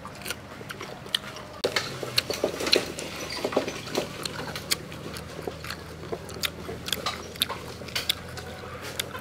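Close-up eating sounds of people chewing and biting into grilled pig head: many short, crisp crunches and mouth clicks. They get louder and busier about a second and a half in.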